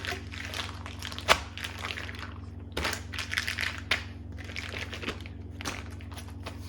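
Plastic crinkling and crumpling in irregular bursts as the chicken tenders are handled for marinating, with one sharp click a little over a second in.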